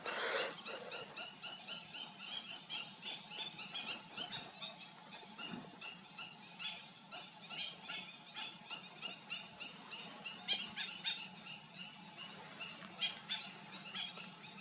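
Many birds calling at once: a dense, continuous chatter of short, high squeaky calls, with a louder burst about a quarter of a second in.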